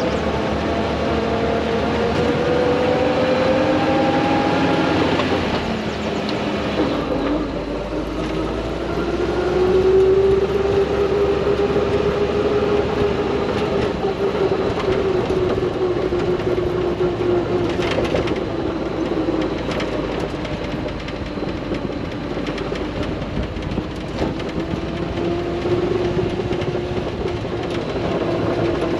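1970 Toyota Land Cruiser's engine pulling while driving. Its pitch climbs, drops sharply about six seconds in at a gear change, climbs again and then holds a fairly steady cruise.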